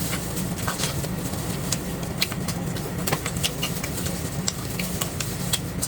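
Close-miked wet chewing and mouth clicks of someone eating braised pork trotter, many short smacks at irregular intervals over a steady low hum.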